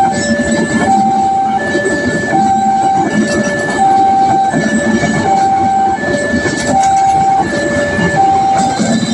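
A two-tone electronic warning alarm alternating a higher and a lower note, about one high-low cycle every one and a half seconds, over the rumble and rattle of a train.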